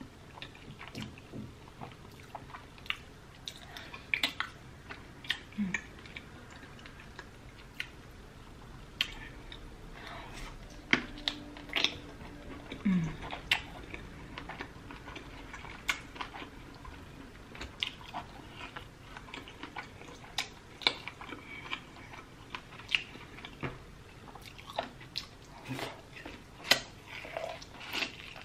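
Close-miked mouth sounds of a person eating a seafood boil with her fingers: wet chewing, lip smacks and small clicks coming irregularly, with two brief low hums of enjoyment.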